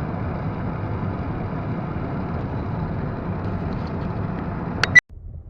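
Steady rumble of a car driving, heard from inside the cabin: engine and road noise. About five seconds in, two sharp clicks and the sound cuts off suddenly to a much quieter level.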